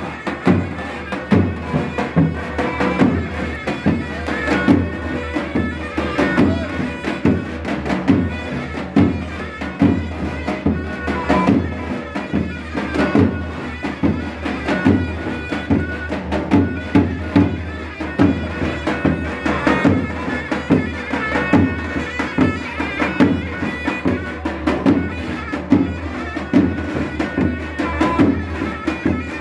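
Traditional folk music: a loud, reedy wind instrument playing a continuous melody over a steady drum beat.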